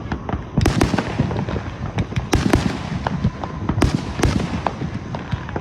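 Consumer fireworks going off in quick succession: a dense string of sharp bangs and crackles, several a second, with the loudest reports about two-thirds of a second in, around two and a half seconds, and near four seconds.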